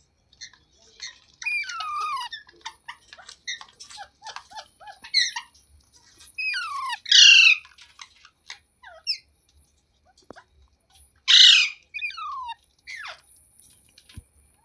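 Parrot calling: a run of short chirps and falling chattering calls, with two loud, harsh squawks about seven and eleven seconds in.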